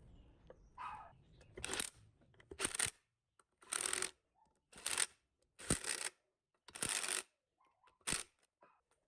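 A series of about seven short scraping or rustling strokes of handwork, each under half a second, with silence between them.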